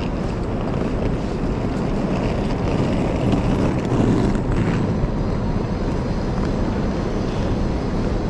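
City street traffic: a steady rumble of vehicles, swelling as one passes close about four seconds in.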